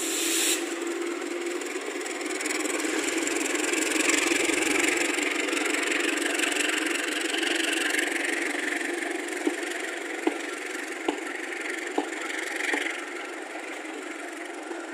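Passenger train coaches rolling past with a steady rumble of steel wheels on rail. In the second half a run of sharp clacks comes about once a second as the wheels cross rail joints, and the sound fades slightly near the end.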